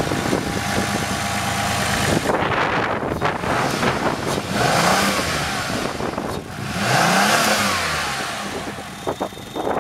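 Mercury Mystique's Duratec V6 running after a cold start from four days' sitting, its revs rising and falling twice before settling.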